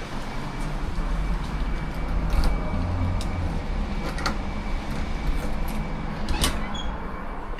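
Low steady rumble of a running vehicle, with a faint steady high tone and three sharp clicks or knocks spread across it.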